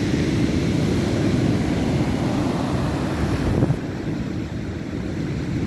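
Stormy Black Sea surf crashing on the shore, with wind buffeting the microphone as a steady low rumble. The hiss of the surf eases a little about two-thirds of the way through.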